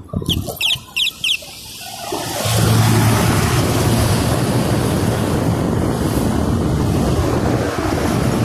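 Wind rushing over the microphone on a moving bicycle ride, a loud, steady roar that builds in about two seconds in. Near the start there are a few short, high-pitched tones, each a fraction of a second long.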